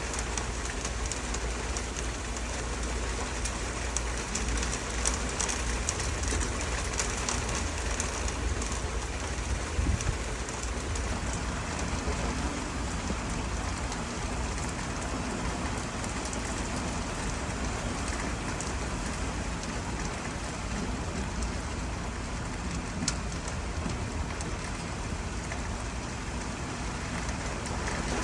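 Steady rain falling on surfaces, an even patter with scattered drips and taps.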